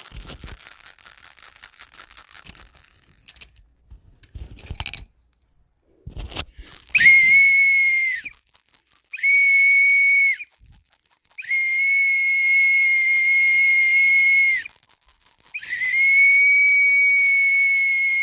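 A toy whistle blown in four long, steady, high notes with short gaps between them, starting about seven seconds in. Before that there is a few seconds of rattling, clicky noise and a couple of knocks as toys are handled.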